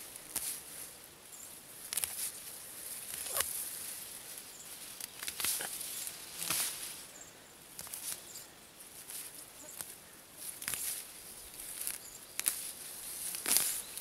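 Grass and vegetation rustling in a string of short, irregular swishes about once a second, as someone walks or pushes through it.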